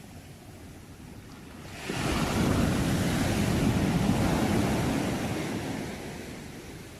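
A sea wave breaking on the shore: a low wash, then about two seconds in a loud rushing surge that holds for about three seconds and fades away as the water draws back.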